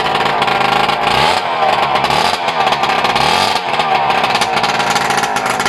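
Engine of a homemade custom motorbike running very loud, revved up and down a few times in the middle.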